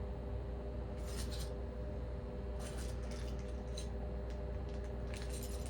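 Lamp parts being handled during assembly: a few short scratchy rustles and clicks, about four in all, over a steady low hum.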